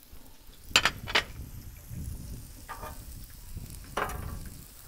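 Sliced onions and jalapenos sizzling in oil on a Blackstone flat-top griddle. Two sharp clacks come about a second in, and a spatula scrapes across the griddle twice later on.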